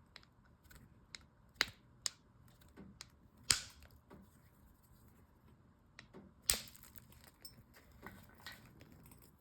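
Stone slab being knapped to take test flakes: three sharp cracks of strikes on the stone, among fainter clicks and ticks.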